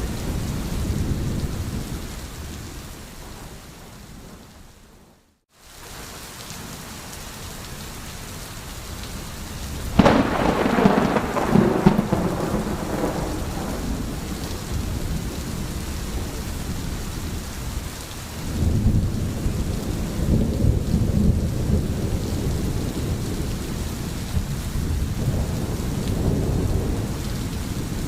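Rain falling steadily with rolling thunder. A low rumble fades away, the sound cuts out for a moment about five seconds in, and then a sharp thunderclap about ten seconds in rolls on for a few seconds. Later there are two more long low rumbles.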